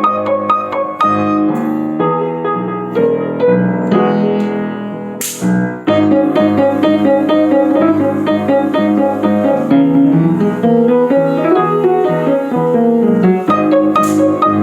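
Piano music with a steady run of notes, broken by two short swells of noise, about five seconds in and again near the end.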